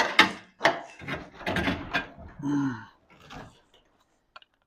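Scraping and knocking of garage door hardware being worked by hand: a quick run of scrapes and knocks for about three seconds, then a couple of faint clicks.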